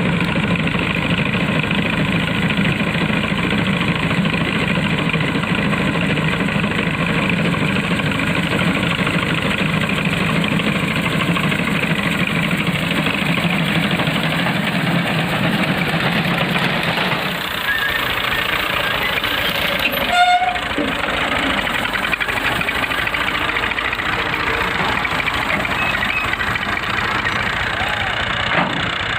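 Tractor engine running steadily while working a reaper binder. Its low hum eases off at about 17 seconds, and there is a brief sharper sound about 20 seconds in.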